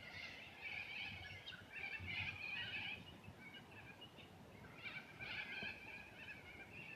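Birds calling and chattering in short bursts, busiest in the first three seconds and again about five seconds in, over faint outdoor background noise.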